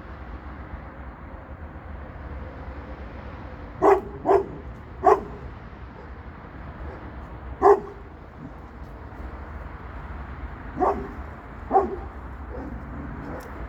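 A dog barking, six single barks at irregular intervals beginning about four seconds in, over a steady low background rumble.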